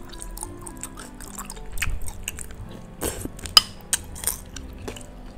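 Close-up wet chewing and mouth sounds of someone eating bakso meatballs, with a run of sharp smacks and clicks around the middle, over faint background music.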